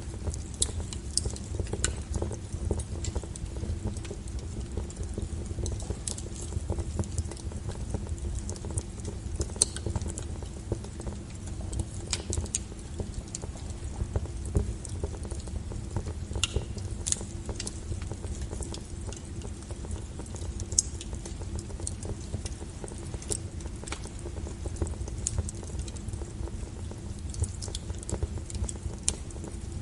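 Wood fire burning, with irregular sharp crackles and pops scattered over a steady low rumble.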